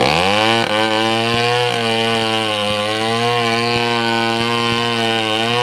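Two-stroke chainsaw engine running. Its pitch drops sharply just as it begins, then it holds at a steady speed with slight wavering.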